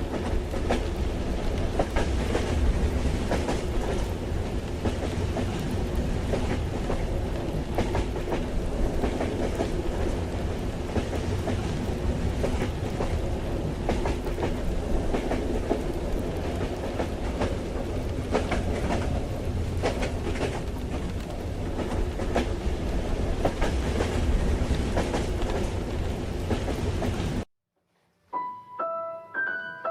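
Ambience of riding inside a train carriage: a steady rumble with rattles and clicks from the wheels and car. It cuts off abruptly near the end, and a piano begins playing single notes.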